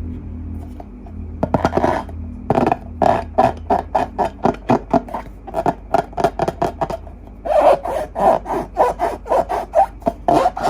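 Slime being pressed and squished by hand, a run of short sticky squishing strokes at about three a second that start about a second and a half in, with a couple of brief pauses.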